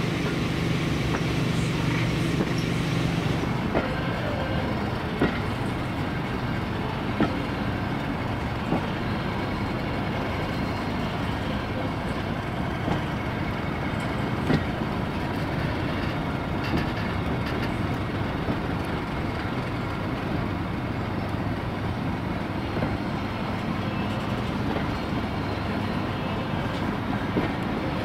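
Heritage railway coach running along the track, heard from inside the carriage at a window: a steady rumble of wheels on rails, with a few sharp clicks from rail joints spaced irregularly through it.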